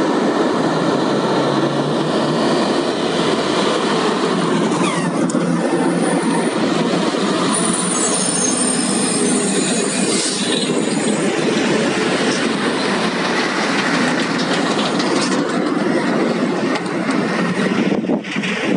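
Heavy coal haul truck running close by, a loud steady din of diesel engine, tyres and rattling body, with a high squeal for a couple of seconds in the middle.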